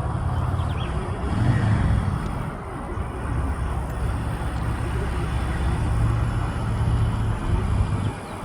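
Harley-Davidson motorcycle's V-twin engine running as the bike rides laps, swelling louder a couple of times as it comes nearer or is throttled up.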